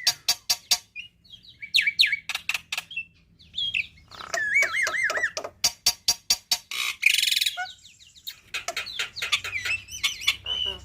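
Black-winged myna (jalak putih) singing a varied song with mimicked fills: fast runs of sharp clicks, looping whistled glides and a warbled phrase, with a harsh rasping burst about seven seconds in.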